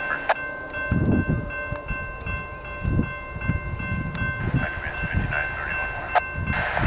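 Freight train approaching a level crossing, with the crossing's warning bell ringing in steady high tones; gusts of wind rumble on the microphone.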